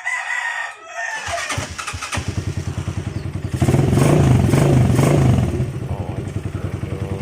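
Motorcycle engine starting on its freshly cleaned electric starter motor, catching a little over a second in and running with an even beat, revved for about two seconds near the middle, then settling back to idle.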